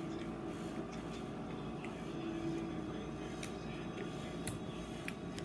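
A person chewing with the mouth closed: a few faint, scattered wet clicks over a steady low background hum.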